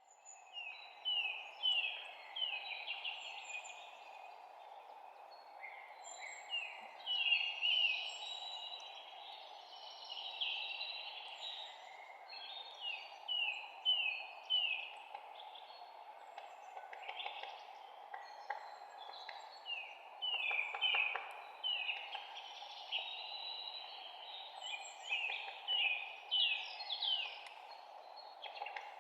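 Several songbirds chirping and singing in a forest ambience: many short, quick, downward-sliding notes in rapid series, some louder and closer than others. A steady background noise runs beneath the birdsong.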